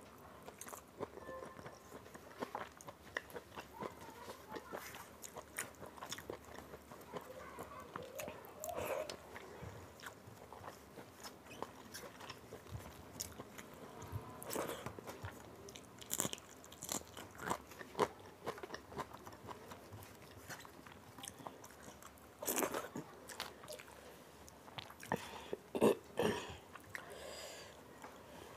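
Close-up eating sounds: chewing mouthfuls of rice and dal eaten by hand, with many small wet mouth clicks and a few louder clicks about 22 and 26 seconds in.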